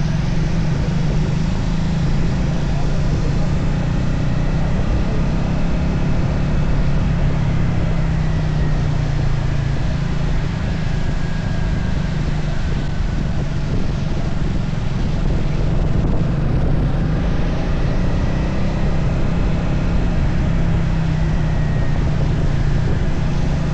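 Triumph Speed 400's single-cylinder engine running steadily at cruising speed, its pitch drifting a little with the throttle, over a constant rush of wind and road noise.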